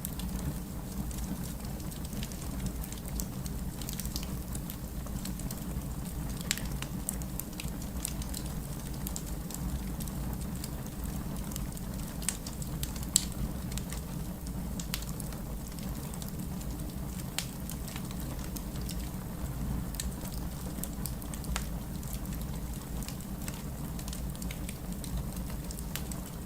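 Heavy rain with a crackling fireplace fire: a steady rushing hiss and low rumble, scattered with irregular sharp crackles and pops, one louder pop about halfway through.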